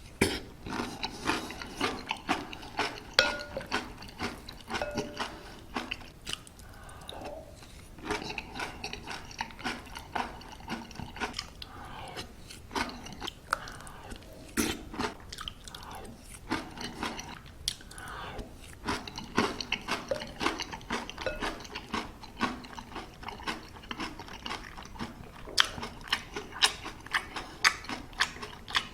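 Close-miked chewing of crunchy granola: rapid crunches in bursts, broken by short pauses between mouthfuls.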